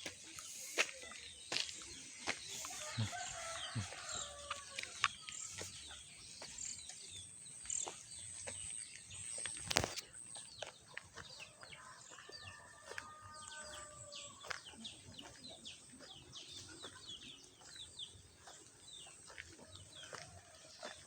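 Farmyard chickens: a rooster crows twice, with clucking and many short chirps and clicks around it.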